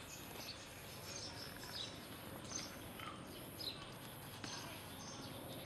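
Birds chirping: short, high, falling chirps repeated every second or so over a steady outdoor background hiss.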